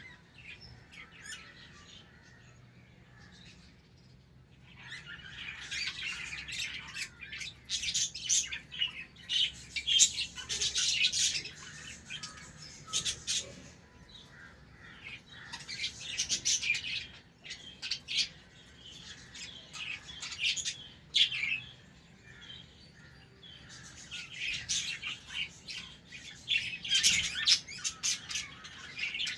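A colony of budgerigars chattering and chirping, rapid high warbles and squawks in bouts, starting a few seconds in with short lulls between.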